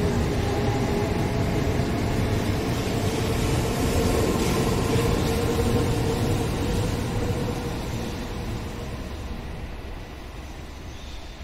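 A Shinkansen train running along the station platform, a steady loud rolling noise with faint whining tones that fades away over the last few seconds as the train moves off.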